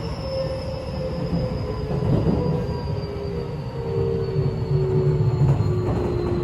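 Keio 8000 series electric train heard from inside the car: its traction motor whine falls slowly in pitch as the train slows on the approach to a station, over the steady rumble of wheels on rail.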